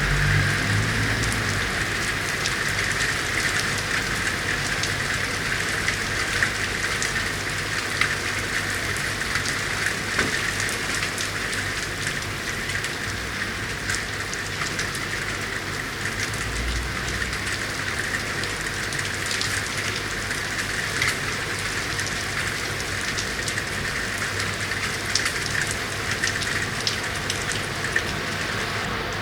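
Steady rain falling on city street surfaces: an even hiss, with many separate drops ticking sharply through it.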